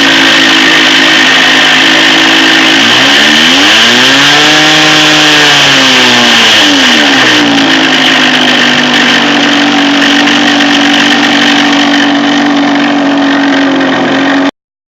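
OS 46 FX two-stroke glow engine in a model airplane running at a steady speed, revved up smoothly and back down about three to seven seconds in, then steady again until the sound cuts off suddenly near the end. The owner says the engine has bad bearings.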